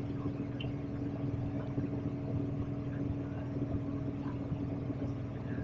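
Steady vehicle running hum with a constant low drone.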